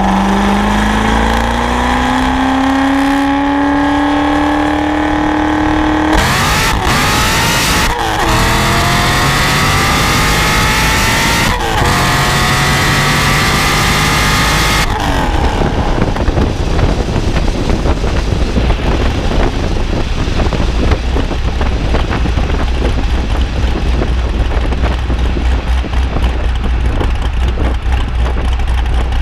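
Supercharged LS7 V8 of a C6 Corvette Z06 with a Corsa exhaust pulling hard through the gears: the engine pitch rises and drops back at upshifts about six, eight and twelve seconds in. From about fifteen seconds in, it gives way to a steadier, rougher engine note.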